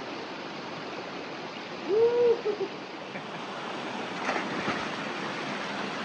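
Creek water running steadily, with a person's short "woo" whoop about two seconds in, from a swimmer in the swim hole. A couple of brief splashes follow a little after the middle.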